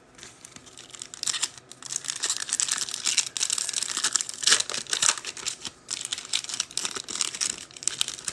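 A trading-card pack's wrapper crinkling and tearing as it is ripped open, a dense run of crackles from about a second in until near the end.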